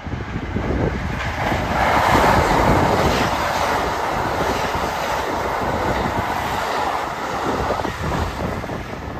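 Kintetsu 21000 series 'Urban Liner plus' limited express train passing through the station at speed without stopping. A rush of wheel and running noise swells about two seconds in, holds steady, and eases off near the end as the cars go by.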